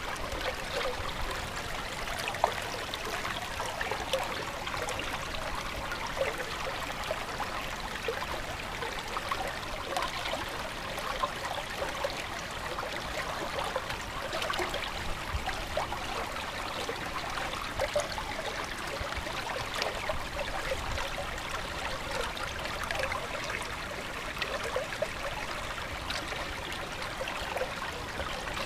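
Stream water running and trickling steadily, with small splashes and gurgles throughout.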